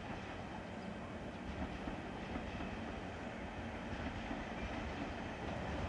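Czech Railways class 380 electric locomotive hauling passenger coaches, approaching slowly: a steady rumble of wheels on track that grows slightly louder.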